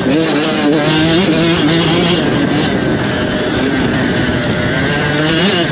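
Motocross dirt bike engine revving, its pitch rising and falling as the throttle is worked, with a quick climb in pitch near the end.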